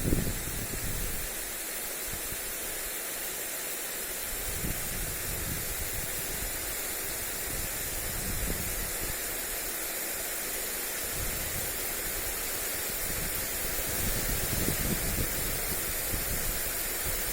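Steady hiss of water spraying from a lawn sprinkler onto grass. Wind buffets the microphone in low rumbling gusts near the start, about five seconds in, and again near the end.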